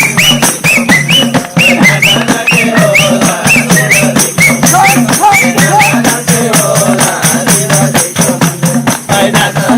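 Nepali folk music with a quick, steady percussion beat and jingling, tambourine-like rattles under a melody of short, repeated rising notes; an instrumental stretch between sung verses.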